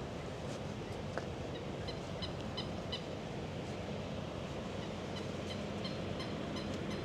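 Early-morning city ambience: a steady low hum of distant traffic, with small birds giving short high chirps again and again over it. A single sharp click comes about a second in.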